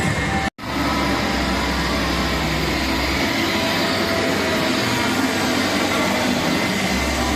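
Steady, dense background din of a packed outdoor motorcycle marketplace, with a low hum that drops away for a few seconds in the middle. The sound cuts out completely for a moment about half a second in.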